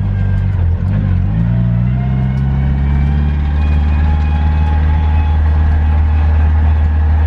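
A car engine running steadily at low revs. Its note drops slightly about a second in, then holds steady.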